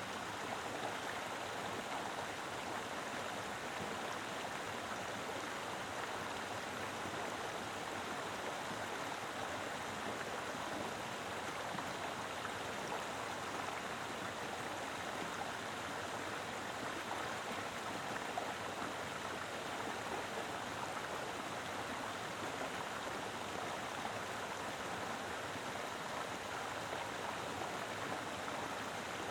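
Mountain river flowing steadily over rocks: a continuous rushing and gurgling of water.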